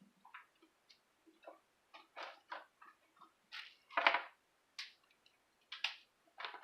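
Knife cutting cauliflower into florets: a series of short, irregularly spaced cuts, the loudest about four seconds in.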